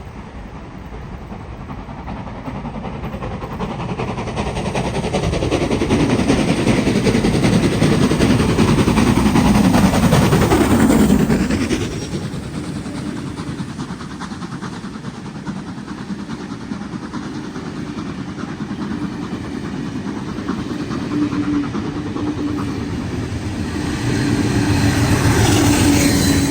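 A train passing: rushing noise that builds for several seconds, is loudest about ten seconds in, then falls away sharply as it goes by. A steadier, quieter rumble with a low hum follows, swelling again near the end.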